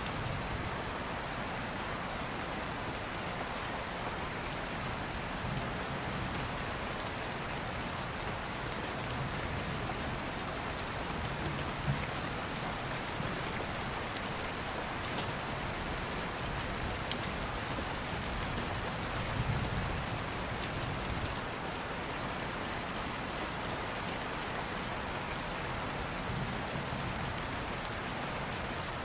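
Steady rain falling, an even hiss with a few sharp ticks now and then and several soft low rumbles.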